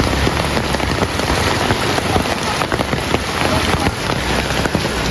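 Heavy rain falling steadily on surfaces, a dense constant wash of many drop impacts.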